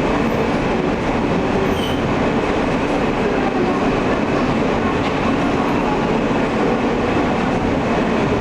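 Interior running noise of an Alstom R160A New York City Subway car: a steady rumble and rattle of the wheels on the rails, heard inside the car.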